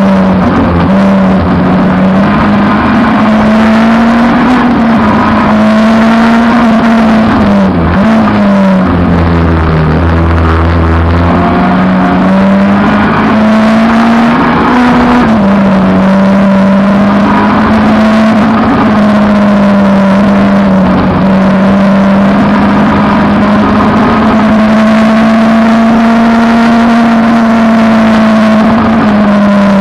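Peugeot 306 race car's engine running hard at high revs under racing load. Its note holds fairly steady, with a few short dips in pitch; the longest and lowest comes about ten seconds in.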